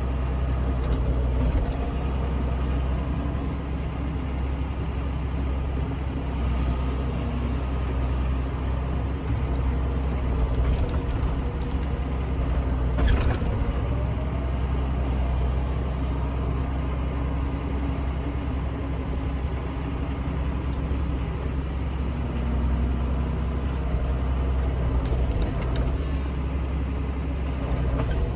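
Tractor engine running steadily with a low, even drone, with a brief knock about halfway through.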